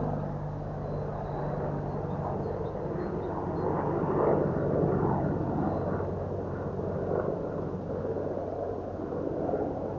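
Army helicopter flying overhead after turning, its rotor and engine giving a steady low drone.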